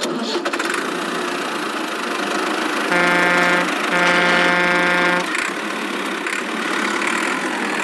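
Vehicle engine running steadily, with a horn honking twice about three seconds in: a short honk, then a longer one.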